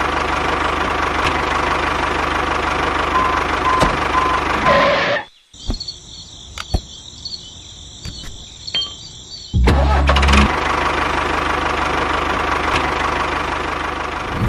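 Steady engine-like running of a DIY mini tractor's motor. It cuts off suddenly about five seconds in, giving way to a quieter stretch with a high whine. About ten seconds in, the loud running starts again.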